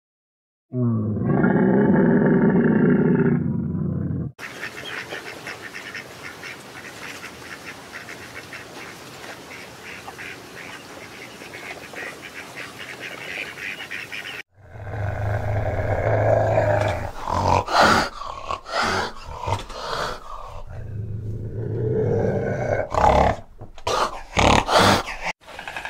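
A camel's low grunting call lasting a few seconds, then a stretch of softer steady hiss, then a fishing cat's loud growls and sharp hisses, repeated irregularly.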